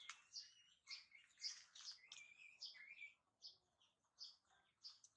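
Faint chirping of small birds: short, high notes repeated about twice a second, with a couple of short sliding whistles in the middle.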